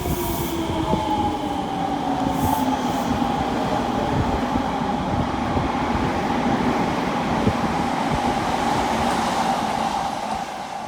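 Odakyu electric commuter train running along the track, its motor whine slowly falling in pitch over running and wheel noise.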